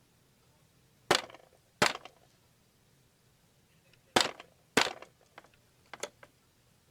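Sharp hard-plastic clacks from handling the animatronic's battery compartment and batteries: two pairs of loud clacks, then a few lighter ticks.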